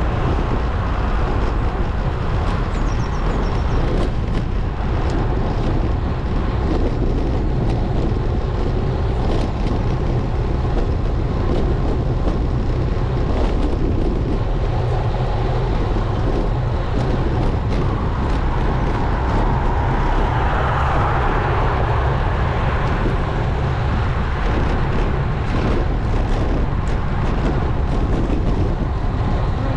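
Steady low rumble of wind and road noise picked up by a bike-mounted action camera while riding, swelling briefly about twenty seconds in.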